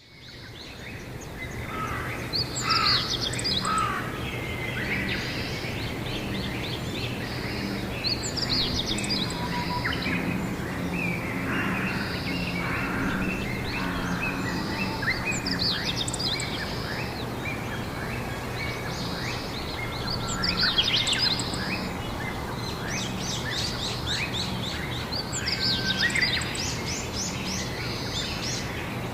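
Wild birds singing outdoors: bursts of fast trills and chirps come and go every few seconds over steady background noise with a low hum. The sound fades in at the start.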